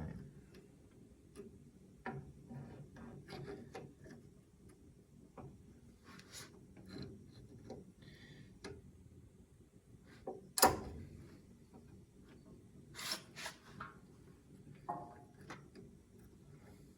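Hand tools scraping and clicking on a rusted, seized cotter pin in the steering linkage's castle nut as it is worked loose, in short irregular bouts with one sharper metal clack about two-thirds of the way through.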